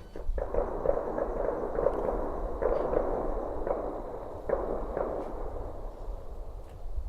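Distant gunfire from a shooting range: a run of shots, several in quick succession, each trailing off as it rings out.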